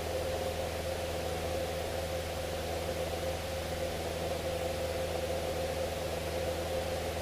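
Cessna 172's piston engine and propeller droning steadily in flight, under a constant hiss.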